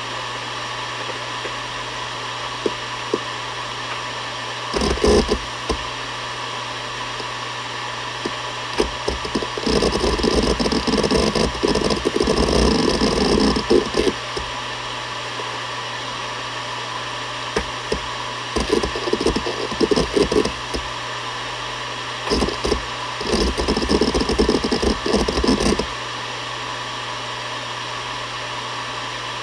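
Seagate Barracuda ES.2 ST31000340NS hard drive spinning with a steady low hum and hiss. Bursts of rapid head-seek chatter come about five seconds in, from about ten to fourteen seconds, and twice more later, with a few single clicks between them.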